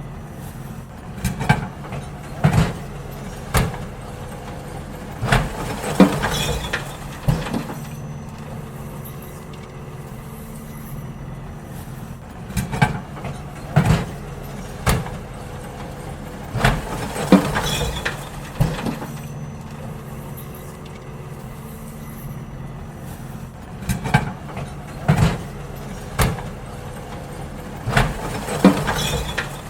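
Garbage truck's engine running steadily while wheelie bins are emptied into it, with clusters of two to four sharp clattering bangs every few seconds, about six groups in all, some followed by a short hiss.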